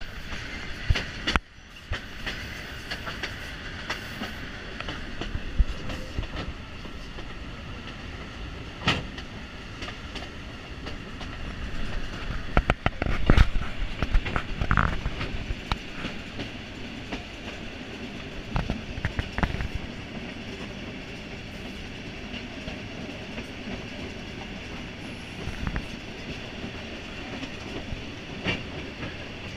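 Passenger train running along the track, its carriages and wheels making a steady rumble with irregular sharp clanks and knocks, the loudest cluster around the middle. Heard from the open doorway of a carriage.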